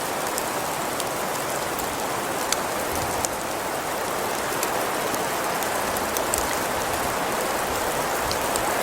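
Steady hiss and patter of precipitation falling on surfaces, with a few faint ticks scattered through it.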